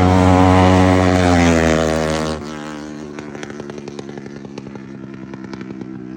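Motorcycle engine held at high revs, then dropping suddenly about two and a half seconds in to a quieter, steady running note with an even pulsing beat.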